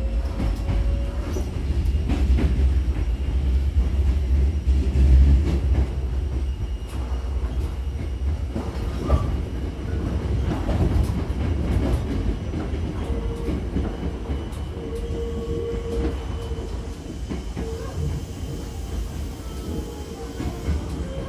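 Hankyu 6000-series electric train running, heard from inside the car by the doors. The wheels make a low rumble, heaviest in the first few seconds, with scattered clicks over the rail joints. A faint high tone comes and goes in the second half.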